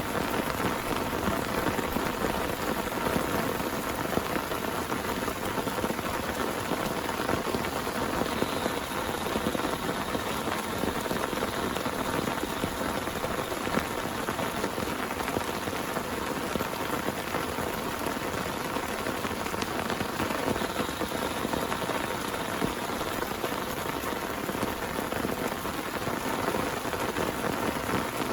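Heavy rain pouring steadily, a dense, even patter of many drops with no letup.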